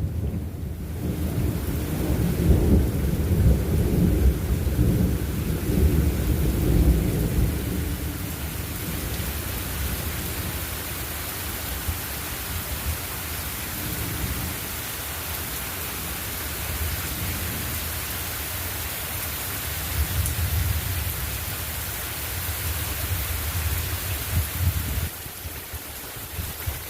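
Steady rain hissing down with rolling thunder rumbling, heaviest over the first eight seconds and swelling again about twenty seconds in.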